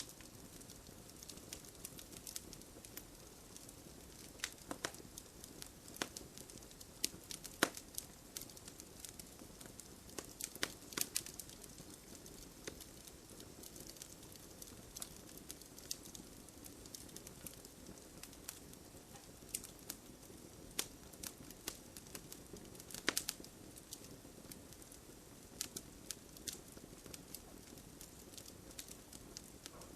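Wood fire in a fireplace crackling, with irregular sharp pops, some in quick clusters, over a low steady rush of burning.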